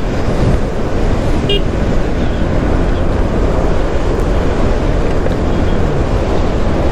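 Wind buffeting a helmet-mounted microphone on a moving motorcycle, mixed with engine and road noise, loud and steady. A brief high-pitched toot sounds about a second and a half in.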